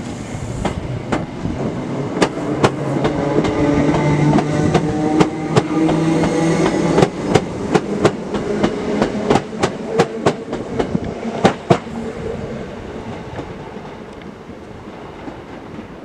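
Class 319 electric multiple unit pulling away past the platform. Its drive hums steadily while the wheels click in a regular rhythm over the track, the clicks loudest in the middle. The sound fades as the train draws off.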